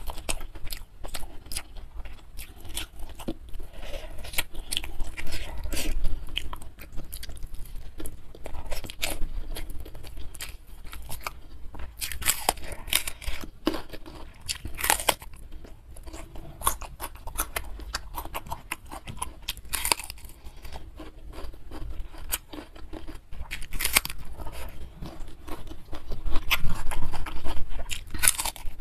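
Close-miked chewing with wet, crisp crunches as raw bitter melon is bitten and chewed. The loudest crunches come about twelve to fifteen seconds in, and chewing grows louder again near the end with a fresh bite.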